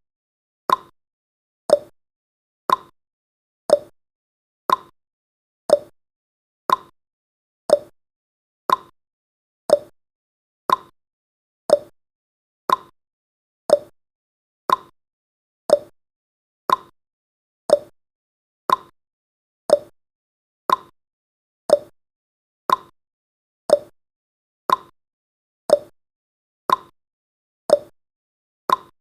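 Countdown timer's clock-tick sound effect: a sharp tick once a second, alternating between a higher and a lower tick like a tick-tock.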